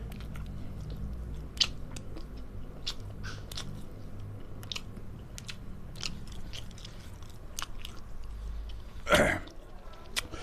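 Close-up mouth sounds of a person chewing and biting a meal of long beans in spicy shrimp-paste sambal: scattered wet clicks, smacks and crunches. There is one short, louder noisy burst near the end.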